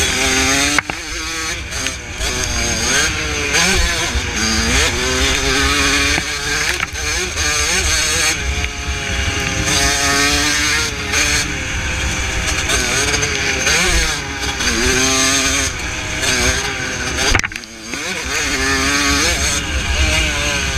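1982 Suzuki RM125 two-stroke single-cylinder motocross engine under hard riding, its pitch climbing and falling back again and again as the throttle is worked. The throttle shuts off briefly about three seconds before the end, then the engine picks up again.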